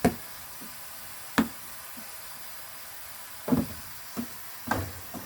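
A ball knocking and bouncing: about five sharp knocks spread over a few seconds, the first two the sharpest.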